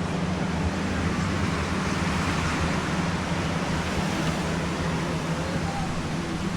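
Steady outdoor background noise with a low, steady hum underneath and no distinct events.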